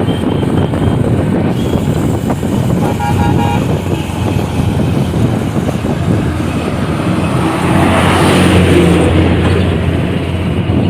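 Busy road traffic noise heard while riding along on a motorbike, with a vehicle horn giving a few quick beeps about three seconds in. A louder vehicle swells past around eight seconds in.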